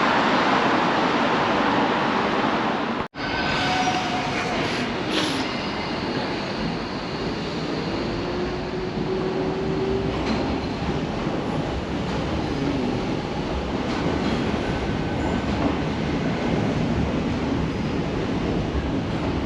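Docklands Light Railway train running, with a steady rumble of wheels on track and faint wheel squeal tones. The sound drops out for an instant about three seconds in.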